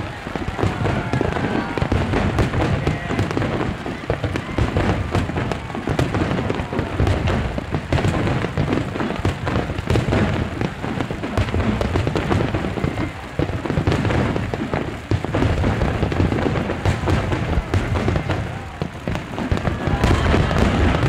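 Aerial fireworks display: a continuous run of shell bursts, deep booms mixed with rapid crackling pops, going on without a break.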